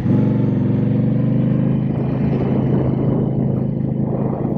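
Indian Scout Bobber Sixty's V-twin engine running loud under way. It comes in sharply at the start, then eases off gradually toward the end.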